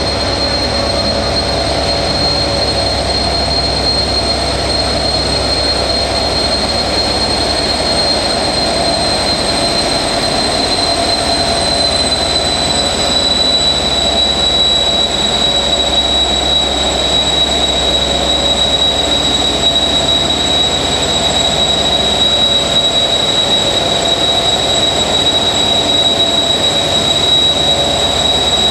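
CC 72000 diesel locomotive's AGO V16 engine idling at about 850 rpm while supplying train heating, a steady low rumble under the high, characteristic whistle of its two turbochargers. The whistle sinks slightly in pitch about halfway through.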